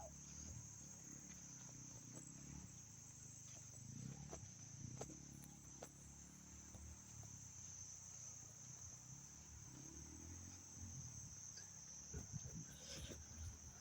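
Faint, steady high-pitched chirring of insects, with a low rumble underneath and a few light clicks.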